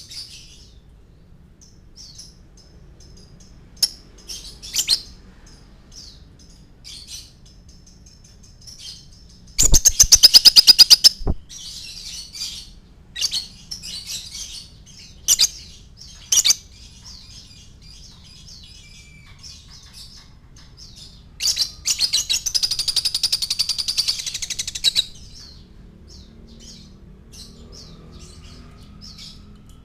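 Lovebird chirping in short high calls, broken twice by long rapid trills of fast repeated notes: one of about two seconds at around ten seconds in, and a louder, longer one of about three and a half seconds past the twenty-second mark.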